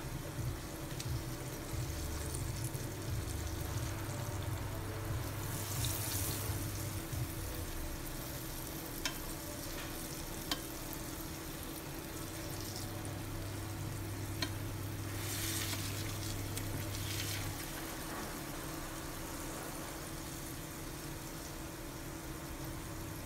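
Flour-coated soft-shell crabs frying in shallow oil in a pan, a steady sizzle that grows louder for a moment about six seconds in and again for a couple of seconds past the middle, as the crabs are turned. Three sharp taps of chopsticks against the pan, over a steady low hum.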